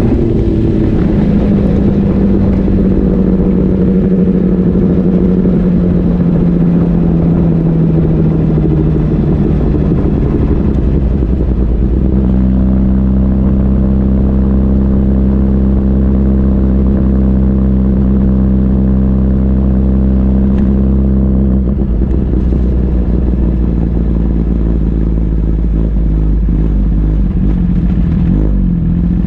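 Sport motorcycle engine heard from an onboard camera while riding on track. Its pitch slides slowly down over the first ten seconds, holds one steady note for about ten seconds, then drops lower and less even near the end.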